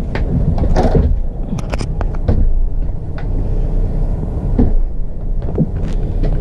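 Steady low rumble of a semi truck heard inside its sleeper cab, with several sharp clicks and knocks.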